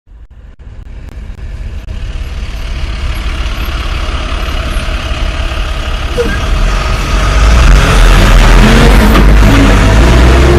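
Heavy truck engines running, growing steadily louder over the first seven seconds and then staying loud.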